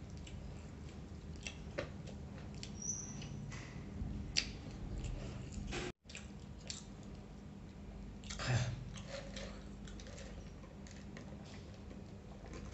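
Close-miked chewing and mouth sounds of a person eating rice and fried chicken with his hands, with scattered small wet clicks and smacks over a steady low hum. The sound cuts out for a split second about six seconds in.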